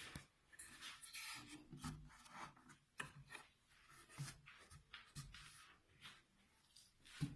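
Faint, irregular rubbing and light knocks of wood being handled and slid about, with the table saw not running.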